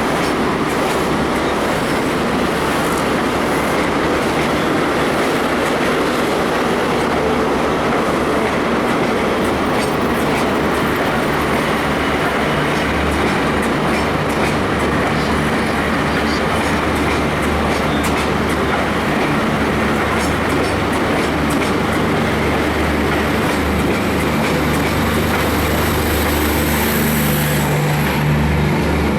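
Steam-hauled train led by A1 Pacific 60163 Tornado pulling out of the station, running steadily and loudly. A low rhythmic pulsing sets in about halfway through, and a faint high tone sounds near the end.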